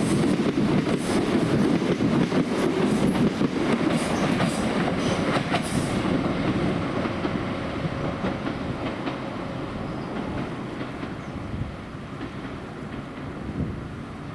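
A passenger train running past on the line, its wheels clattering over rail joints. The clicking stops about six seconds in and the rumble fades away as the train moves off.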